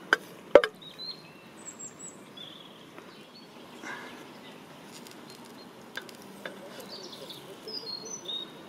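Two sharp knocks about half a second apart, then small birds chirping now and then, with a few faint clinks over a quiet outdoor background.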